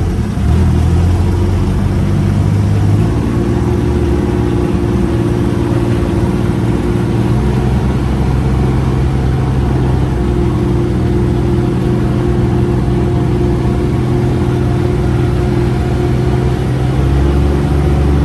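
UTV engine running under throttle while driving, its steady note shifting pitch a couple of times. The driver has his foot down heavily, yet the machine is slow to pick up speed.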